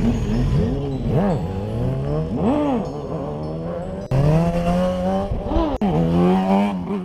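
Car engine revved in quick throttle blips, its pitch rising and falling several times, then held at a steady higher speed for the last few seconds.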